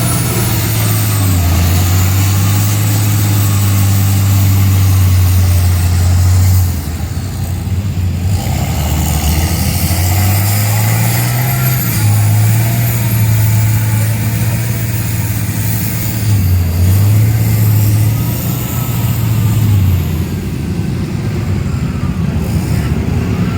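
Mud truck engine running hard and revving, its low note stepping up and down several times as the driver works the throttle in the mud.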